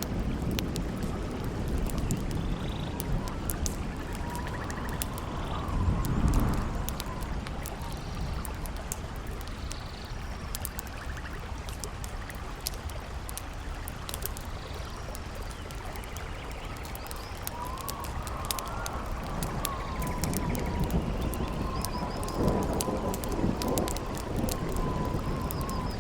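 Campfire crackling in sharp pops, under a howling wind that whistles in a wavering tone, rising and falling. Deep rumbling swells come about six seconds in and again near the end.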